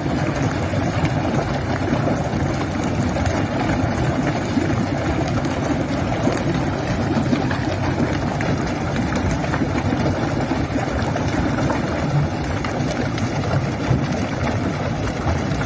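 Steady rushing of crude oil gushing under pressure from a ruptured oil pipeline.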